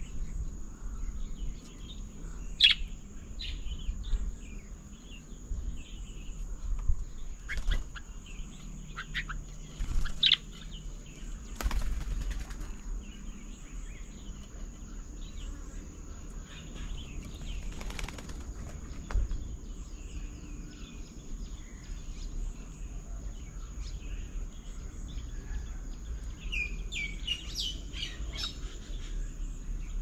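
Birds chirping and calling: scattered short, sharp calls, with a busier flurry near the end, over a steady high whine and a few brief knocks.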